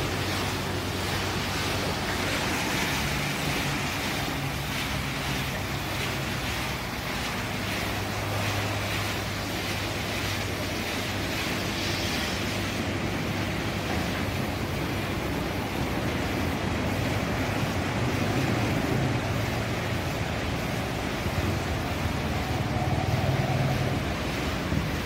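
Automatic car wash machine running: a steady hiss of spraying water over a low, steady machine hum.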